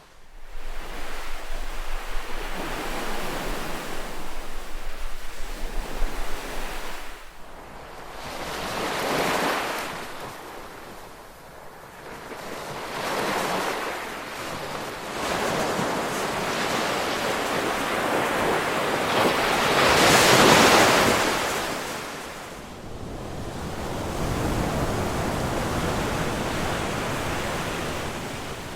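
Ocean waves breaking and washing up the shore, the surf swelling and falling back several times, with the biggest surge about two-thirds through. Wind buffets the microphone with a low rumble during the first several seconds.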